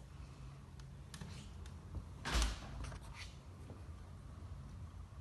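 A dull thump a little over two seconds in, with a few light clicks before and after it.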